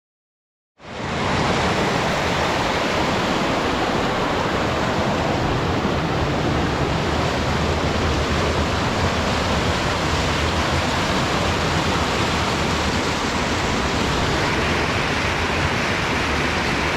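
Rushing water of a river waterfall, a steady dense hiss that cuts in abruptly just under a second in.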